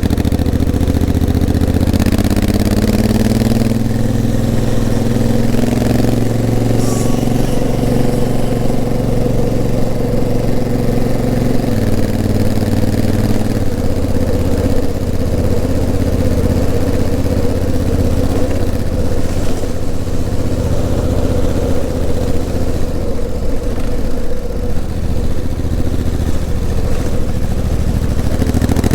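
Honda CRF1000L Africa Twin's 998 cc parallel-twin engine running under way, its pitch climbing over the first few seconds as it accelerates, then stepping down near the middle as the DCT gearbox changes gear, before running on at steady revs.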